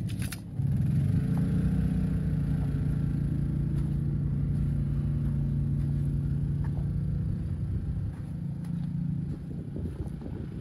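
A vehicle engine running steadily, a low even hum that comes in abruptly about half a second in and eases off near the end.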